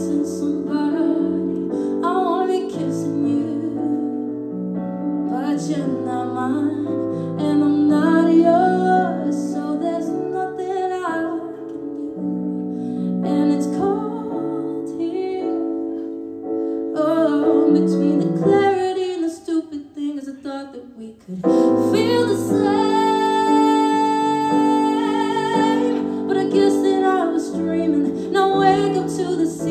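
A woman singing a slow song with piano accompaniment. The music drops away briefly about two-thirds of the way through, then comes back with a long held note.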